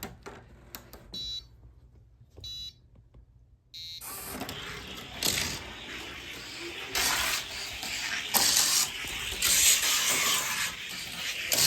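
Three short electronic beeps from the track's start gate or timer, then, from about four seconds in, a die-cast car rolling down a long plastic track with a rushing rumble that swells and fades as it takes the curves.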